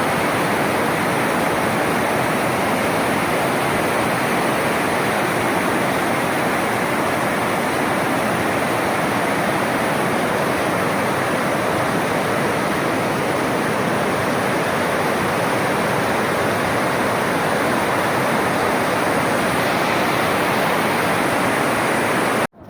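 Floodwater rushing in a steady, loud roar of flowing water that cuts off suddenly near the end.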